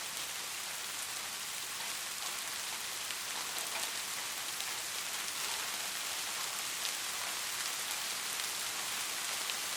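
Steady rain falling: an even, continuous hiss with scattered faint drop ticks.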